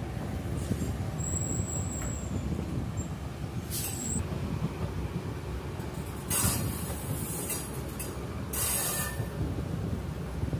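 Passenger train running along the track: a steady low rumble of the wheels and coaches, with a brief thin high whine about a second in and a few short bursts of hiss in the second half.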